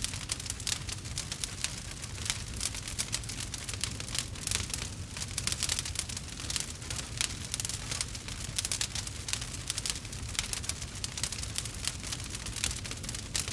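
Wood fire crackling in a fireplace: dense, irregular snaps and pops over a low steady rumble.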